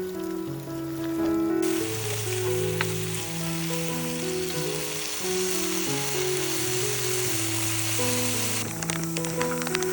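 Food sizzling as it fries, a dense steady hiss that starts abruptly about a second and a half in and cuts off abruptly near the end, under background music.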